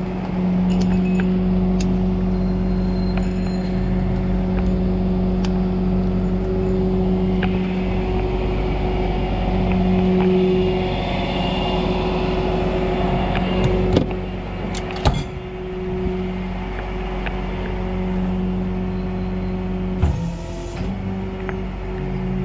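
A steady mechanical hum from a running motor or engine. A few sharp clicks come about two-thirds of the way in, and a knock comes near the end.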